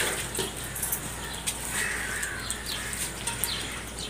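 Birds chirping in the background, with a few faint clicks.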